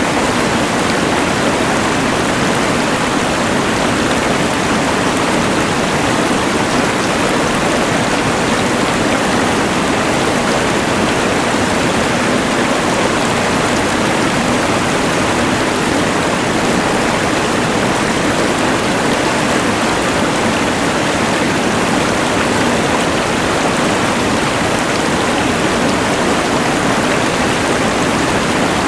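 A rushing mountain river blended with the hiss of a LectroFan white noise machine: one steady, unchanging wash of water noise.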